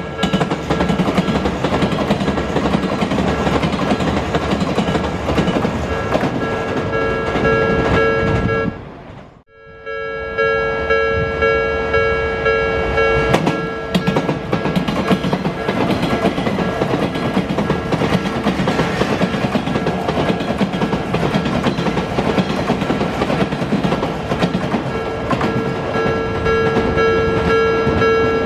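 A Japanese level-crossing warning bell ringing steadily while Odakyu Line trains pass over the crossing with wheel clatter and rumble. The sound drops out briefly about nine seconds in. The bell is then buried under the train noise for a while and comes back clearly near the end.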